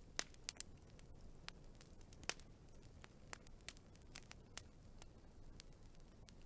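Wood fire crackling: scattered irregular snaps and pops over a low, soft rumble of burning, with two louder pops, one just after the start and one a little past two seconds in.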